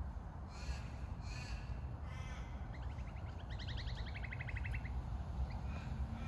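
Wild birds calling: two short harsh, crow-like calls, then a rapid run of clipped notes that climbs in pitch, over a steady low rumble.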